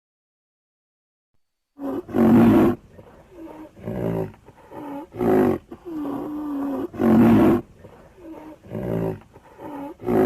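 A big cat roaring in a series of short, loud calls, one every second or two, starting about two seconds in.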